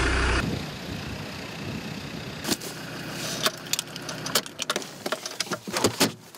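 Land Rover Defender 90 Td5's turbodiesel running steadily, heard from inside the cab, with a quick run of sharp clicks and knocks starting about two and a half seconds in.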